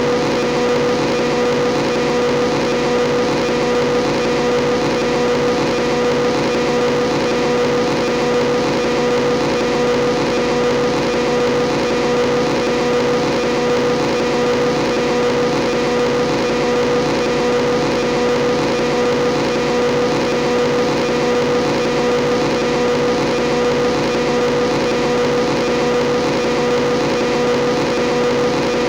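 Motorbike engine running at a constant speed, a steady unchanging hum that holds one pitch throughout.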